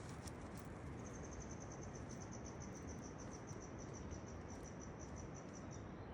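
An insect chirping: a faint, high, evenly pulsed trill of about six chirps a second that starts about a second in and stops near the end, over a steady low hiss of outdoor ambience.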